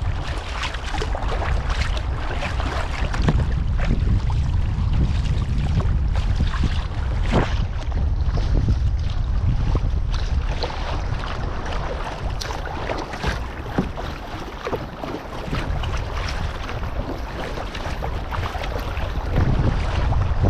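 Kayak paddles splashing stroke after stroke and water washing past the hull as the kayaks are paddled hard in a sprint, with wind rumbling on the microphone.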